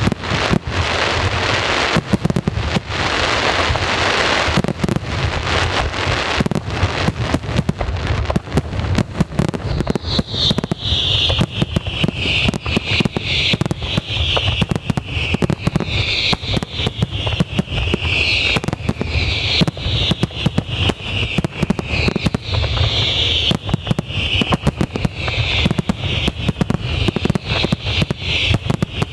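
Aerial fireworks going off in a rapid, dense barrage of bangs and crackles. From about a third of the way in, a high shrill sound pulses over the bangs.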